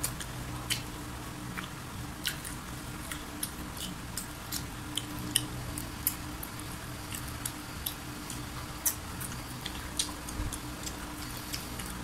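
Close-up chewing of crispy fried chicken and french fries: scattered sharp crunches and wet mouth clicks, one or two a second.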